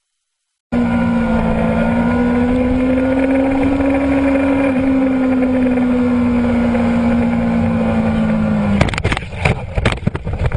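An engine running loudly at a steady high speed, its pitch drifting slightly. About nine seconds in it gives way to a rapid, irregular run of knocks and bangs.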